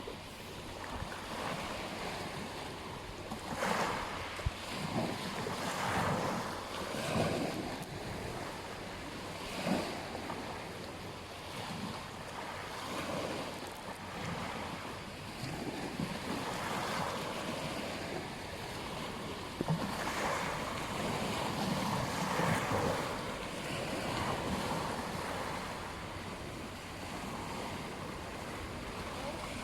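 Ocean waves breaking and washing up a beach, the surf swelling and easing every few seconds, with wind on the microphone.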